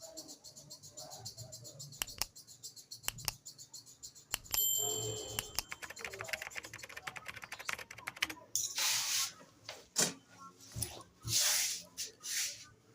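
Small rapid metal clicks and a short metallic ring from a hair clipper blade being handled, then several scraping strokes, each about half a second.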